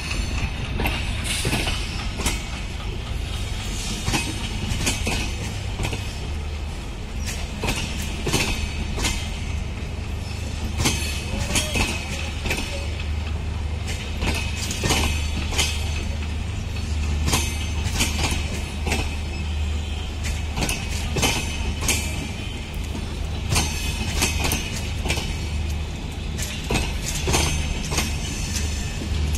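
Bangladesh Railway passenger coaches of the Padma Express rolling along the track, a steady low rumble with wheels clacking over the rail joints.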